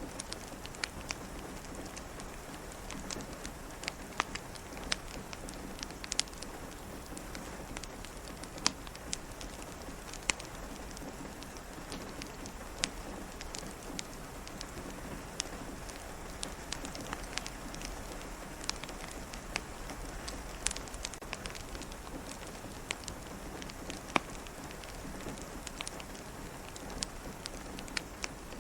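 Steady soft rain hiss with scattered sharp, irregular pops and crackles of a wood fire in a fireplace.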